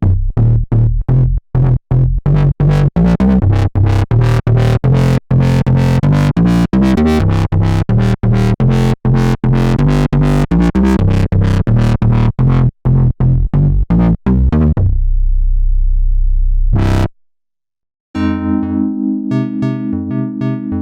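Sequential Fourm analog polysynth played dry, with no effects. A bass preset plays a fast line of short, low staccato notes, ends on a held low note, and stops. After a second of silence, an electric-piano-like preset starts playing chords near the end.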